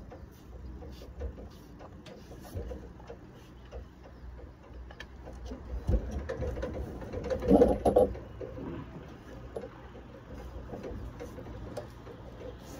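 Hand-working sounds of soft lead sheet being folded and pressed: a run of light, irregular clicks and taps, with a louder knock about seven and a half seconds in.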